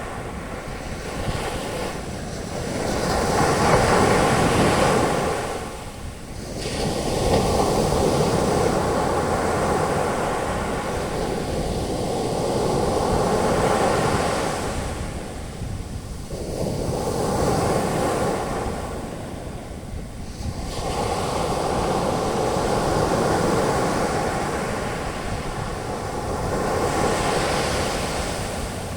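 Sea waves breaking on a beach and washing up as foam, the surf swelling and ebbing in slow surges every four to five seconds.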